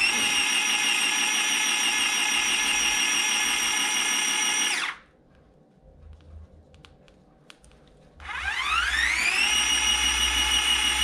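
Small electric motor of a handheld dishwasher running dry with a high, steady whine, switched off about five seconds in. A few faint clicks follow, then it is switched on again about eight seconds in, spinning up with a rising whine to the same steady pitch.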